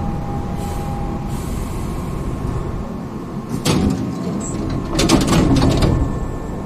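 Hankyu 5300 series electric train running, with a steady rumble of wheels and motors. There is one sharp clack about three and a half seconds in and a quick run of clacks about five seconds in.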